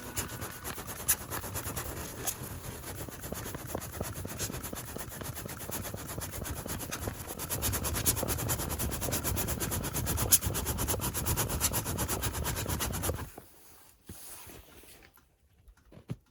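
Wood-pellet fire in a small homemade secondary-combustion fire pit, crackling constantly over a low roar that swells in the second half, then cuts off suddenly about 13 seconds in.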